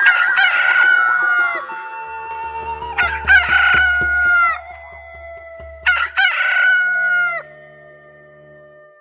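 Rooster crowing, one crow ending early and two more about three and six seconds in, each call falling away at its end, over sustained background music.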